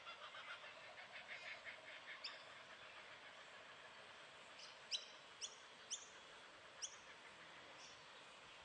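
Faint outdoor birdsong: a soft twittering chatter over the first couple of seconds, then four short, sharp, high chirps that drop in pitch, between about five and seven seconds in.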